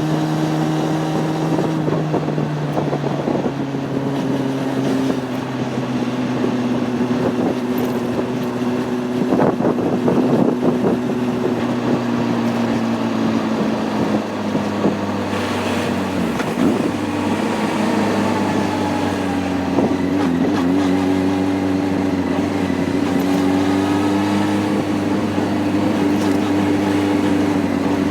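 Honda CB600F Hornet inline-four engine running under way, its note stepping down a few seconds in, sagging around the middle and climbing again as the rider works the throttle and gears. Wind rushes over the microphone throughout.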